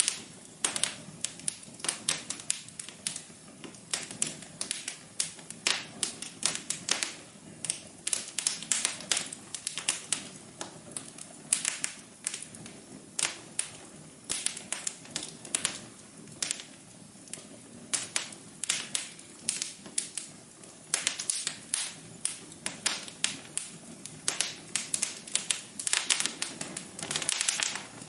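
Wood fire in a fireplace crackling: irregular sharp pops and snaps, several a second, over a soft low hiss of burning.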